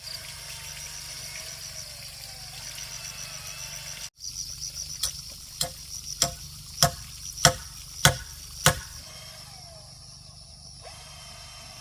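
A steady, pulsing insect chorus of crickets or cicadas. Over it, about halfway through, come seven sharp, evenly spaced knocks about 0.6 s apart, like blows of a hand tool on wood or bamboo.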